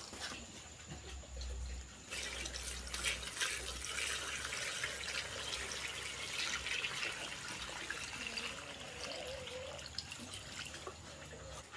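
Water running and splashing, starting about two seconds in after a few clicks.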